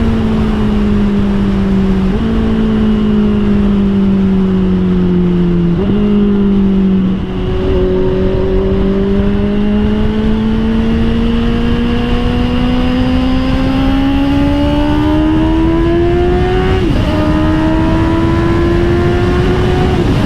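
Honda CBR650R inline-four through an Austin Racing GP1R aftermarket exhaust, heard on board while riding. In the first few seconds the revs sag and jump up twice as the bike slows and downshifts. Then comes one long pull with the pitch rising steadily, and the revs drop sharply at upshifts near the end, over steady wind noise.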